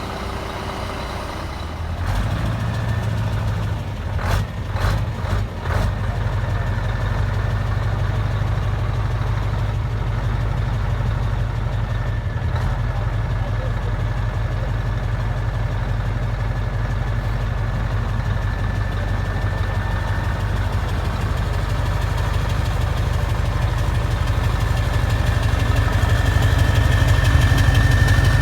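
A heavy truck's diesel engine idling steadily. It gets louder about two seconds in, and a few sharp clicks come between about four and six seconds.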